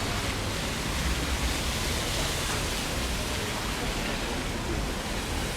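Steady, even background noise of a shopping-centre interior, a continuous hiss-like wash with no distinct events standing out.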